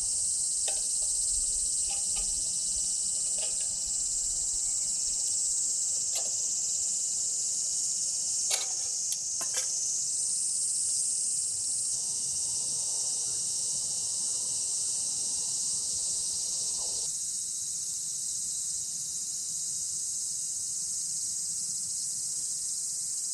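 Summer insect chorus, a steady high-pitched shrill, with a few scattered light clicks and taps, the sharpest around the middle.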